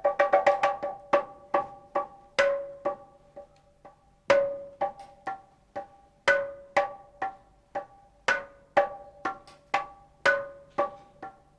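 A struck percussion instrument with a short, ringing pitched tone plays a slow, loose rhythm of single strokes. It sounds like reconstructed Paleolithic music: a strong stroke about every two seconds, with lighter strokes fading in between.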